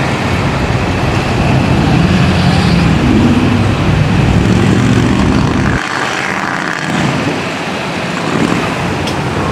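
Truck engines running with a steady low rumble. About six seconds in the low rumble drops off suddenly and a quieter vehicle noise carries on.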